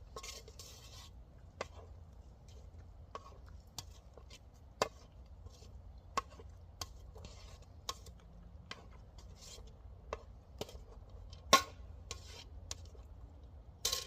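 Cutlery clicking and scraping against a metal dish in irregular sharp taps about once a second, with short rubbing scrapes between them. The loudest click comes about eleven and a half seconds in, and another falls near the end.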